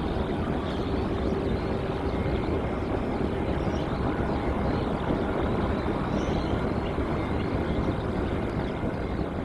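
Jet airliner engines running, a steady rumble with a faint whine in it, beginning to die away near the end.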